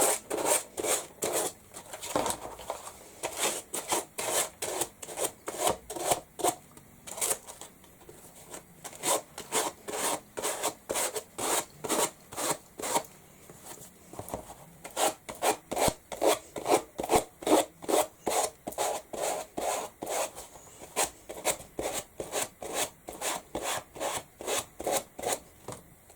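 Hand sanding block rubbed back and forth in quick, even strokes, about two to three a second.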